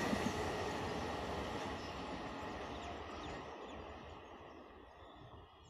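A passenger train's coaches rolling away on the track, their rumble and rail noise fading steadily as the train recedes into the distance.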